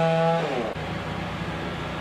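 Two-stroke chainsaw engine running at full revs, then the throttle is released about half a second in. The pitch falls away and the saw settles into a rough, uneven idle.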